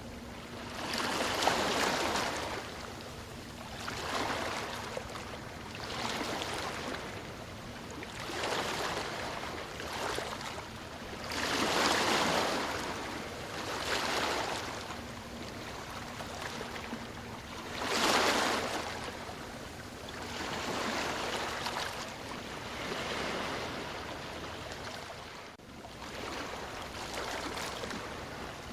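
Ocean waves breaking and washing up the shore. The surf swells and fades every couple of seconds, with bigger surges a second or so in, about 12 seconds in and about 18 seconds in.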